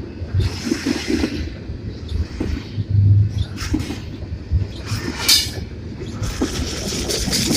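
Union Pacific intermodal container freight train rolling past: a continuous low rumble of wheels on rail with irregular clattering and knocks.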